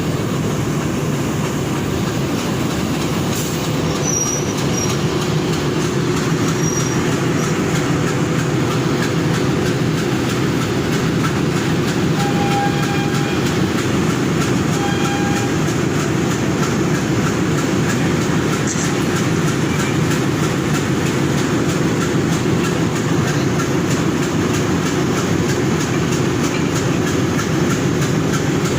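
Train running on the rails: a steady rumble of wheels and engine, with a few faint brief squeals about twelve and fifteen seconds in.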